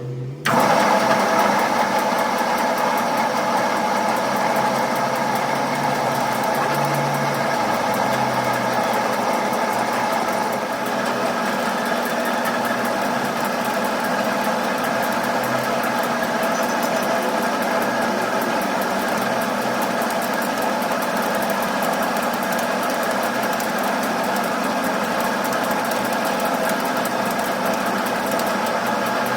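A workshop machine starts abruptly about half a second in and runs steadily, giving a constant whine made of several steady tones.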